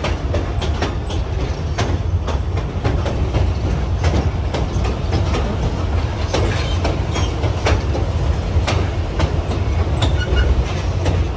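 Excursion train car rolling along the track: a steady low rumble with irregular clicks and clacks of the wheels over the rails.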